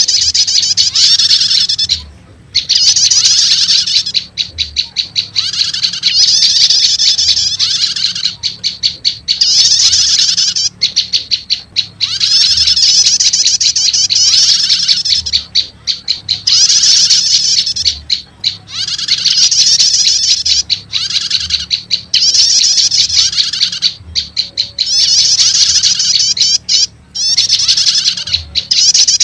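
Recorded prenjak lumut calls mixed with the prenjak 'stater' call, played as a bird-trapping lure. Loud, rapid chattering trills come in repeated phrases of a second or two with short breaks between them. The calls are meant to draw wild prenjak lumut in.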